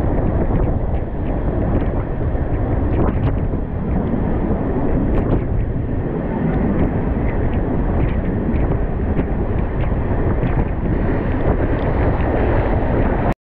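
Express train running at speed, heard from on board: a steady rush of wind on the microphone over the rumble of the wheels, with frequent small clicks and rattles from the running gear. The sound cuts out for a moment near the end.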